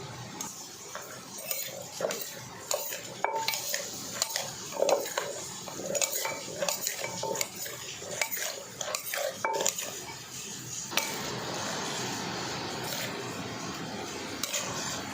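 Utensils clinking and scraping against a dish of food in irregular knocks and clicks, then a steady hissing noise from about eleven seconds in.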